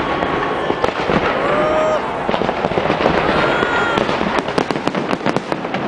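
Fireworks going off: a steady din of bangs and crackle, turning into dense rapid crackling about two-thirds of the way through.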